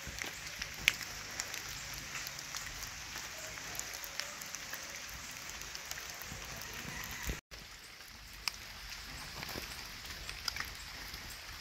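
Light rain falling, with scattered drops tapping sharply, cut off briefly about seven seconds in.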